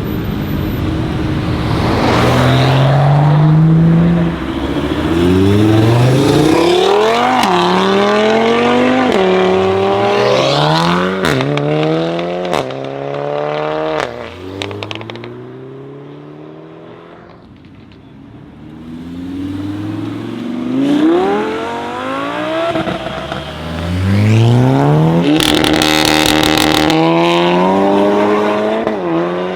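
Two modified cars accelerating hard away in turn. Each engine note climbs and drops back at every upshift as it runs through the gears, and the first fades out in the middle before the second pulls away. A short burst of rapid crackles cuts in during the second run.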